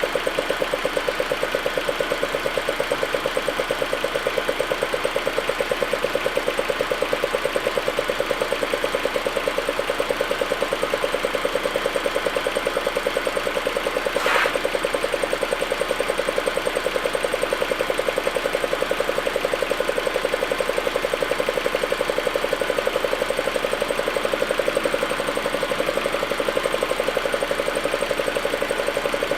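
Audi A4 1.8T's turbocharged inline four-cylinder engine idling with an even, rapid pulse, with one brief sharp sound about halfway through.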